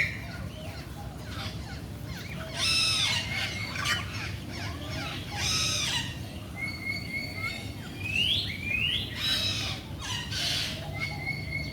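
Several birds calling: loud calls every few seconds, mixed with short rising whistles and a few held whistled notes.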